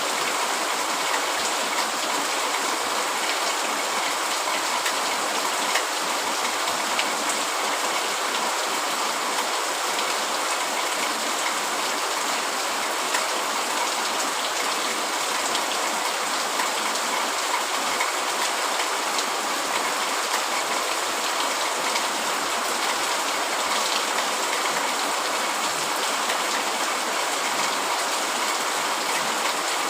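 Heavy rain falling steadily on a tent: an even hiss with scattered sharp drop ticks.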